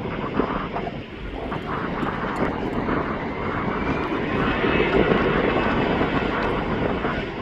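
Jet airliner engines running, a broad rumble that swells to its loudest about five seconds in, with a faint whine rising in pitch as it builds.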